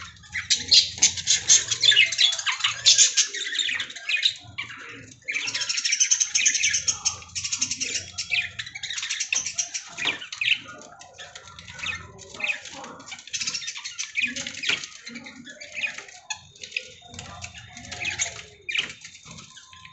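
Lovebirds chattering with rapid, shrill chirps in dense bursts, loudest in the first half and thinning out toward the end.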